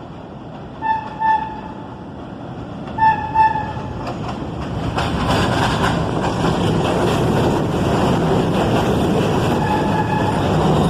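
New York City subway train horn giving two pairs of short toots, then the rising rumble and rail noise of a subway train coming into the station. One more brief horn note sounds near the end.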